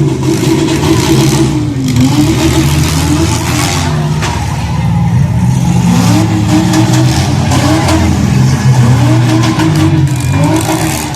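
Demolition derby cars' engines revving loudly, the pitch climbing and dropping again and again as the drivers accelerate and back off.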